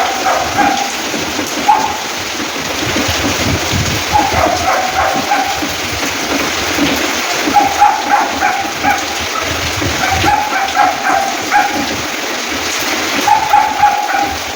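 Heavy rain falling steadily, with an animal calling out about six times in short pitched cries a couple of seconds apart.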